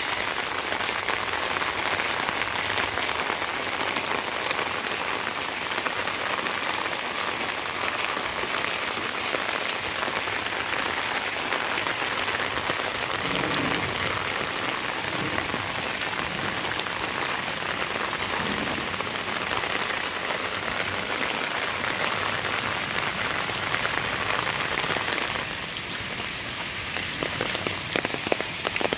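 Steady rain falling on grass, trees and a wet brick path, an even hiss. About three seconds from the end the hiss eases a little and single drops tick sharply.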